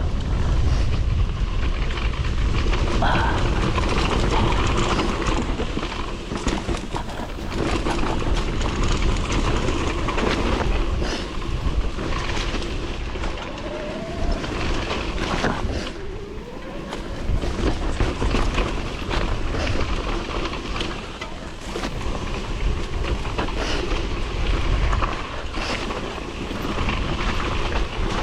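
Wind buffeting the microphone with a constant low rumble, mixed with the rattling and knocking of riding fast over a rough, slick trail.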